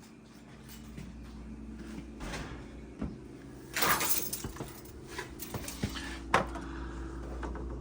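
Refrigerator humming steadily as it runs with the ice maker just switched on, the hum building up over the first second or two. Several sharp knocks and clicks come over it, with a short rustle about four seconds in.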